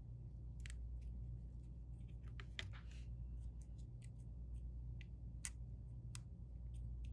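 Small, sharp clicks and taps at irregular intervals, typical of metal tools and small phone parts being handled on a workbench, with a few clustered together about two and a half seconds in. A steady low electrical hum runs underneath.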